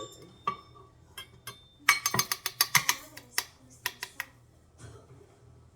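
Kitchen utensils clinking and knocking against a mixing bowl as brown sugar is emptied in: a few single clicks, then a quick run of knocks in the middle, then a couple more.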